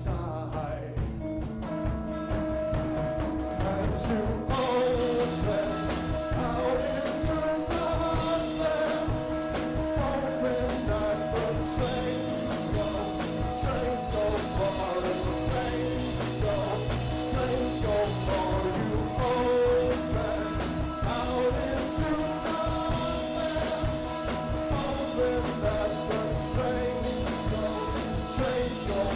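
A live rock band playing a song, with a held, bending melody line over the band; the sound grows fuller and brighter about four seconds in, as cymbals and drums join.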